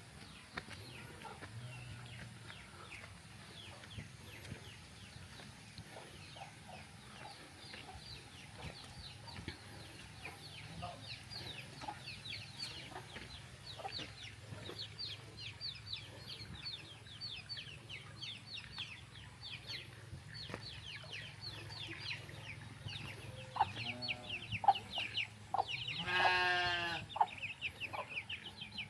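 Chickens: a continual run of short, high, falling peeps, with one louder drawn-out chicken call near the end, over a faint steady low hum.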